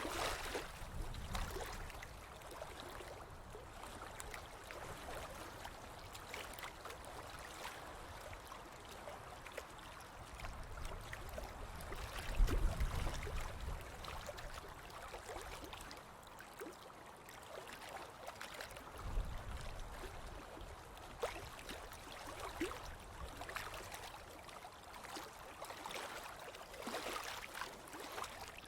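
Ocean waves washing onto a beach: a steady hiss of surf, with a few heavier swells of rumbling water, the loudest near the middle.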